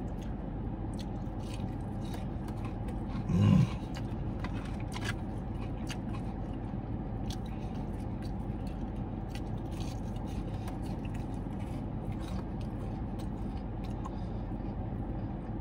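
Chewing on a crispy breaded fried chicken tender, with small crunches and mouth clicks scattered throughout and a short hummed "mm" about three and a half seconds in, over a steady low hum inside the car.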